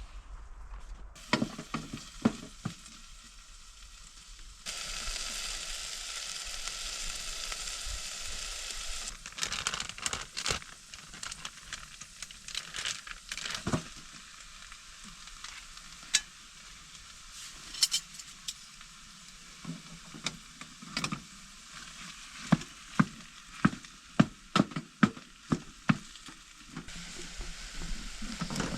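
Food sizzling in a frying pan while a utensil stirs and knocks against the pan. The sizzle gets louder for a few seconds, and the knocks come quickly near the end.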